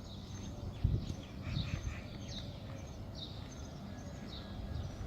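Small birds chirping outdoors: short, high, falling chirps repeated about every three-quarters of a second, over a low outdoor rumble with a few dull low thumps, the loudest about a second in.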